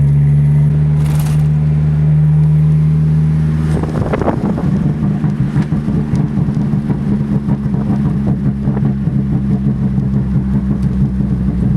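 Car engine running under steady revs for about four seconds, then dropping into a rougher, rapidly fluttering note for the rest.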